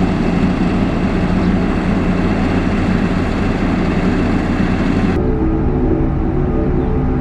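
Heavy construction machinery with a diesel engine running steadily under load. About five seconds in, the sound cuts abruptly to a duller, different engine sound with steadier pitched lines.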